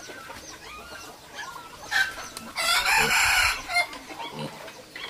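A rooster crowing once, a call of about a second about two and a half seconds in, with short high chirps from other birds around it.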